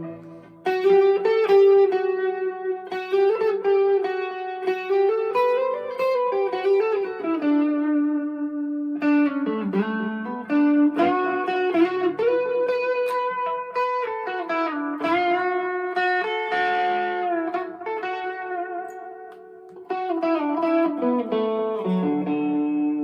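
Fender Player II Stratocaster electric guitar played through an amp with a little drive: a melodic line of sustained single notes and chords. The playing breaks off briefly just after the start and again about twenty seconds in.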